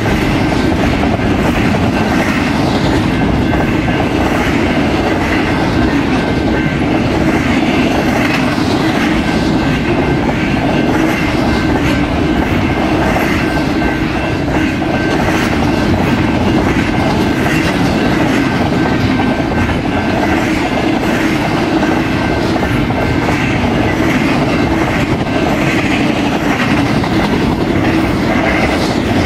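A fast-moving BNSF intermodal freight train's cars rolling past, a steady loud rumble with the wheels clacking over rail joints. A faint thin high ring from the wheels runs through it.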